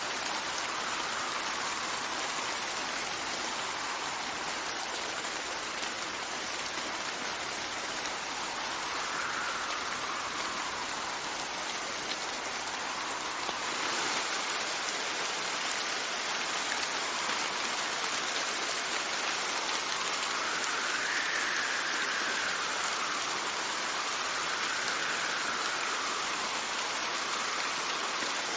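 Steady heavy rain hissing, with wind whistling in slow rising and falling gusts.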